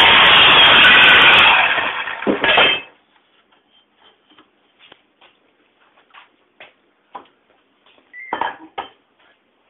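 Power saw cutting through a 3/4-inch metal rod, a loud steady noise that dies away about two and a half seconds in. After it come light metallic clinks and a brief clatter near the end.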